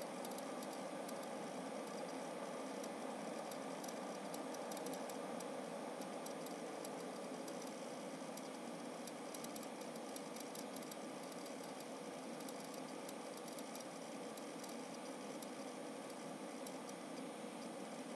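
Seagate FireCuda 2TB (ST2000LX001) hybrid hard drive clicking in irregular clusters of faint ticks over a steady computer fan whir. The owner does not take the clicks for the click of death, and wonders whether the drive is filling its NAND cache.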